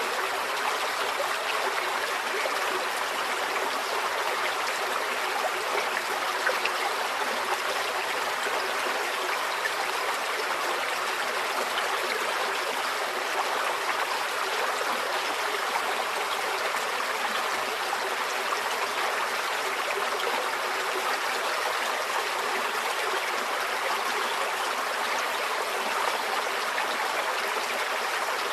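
Small stream flowing steadily over stones, a continuous babbling rush with fine trickling detail.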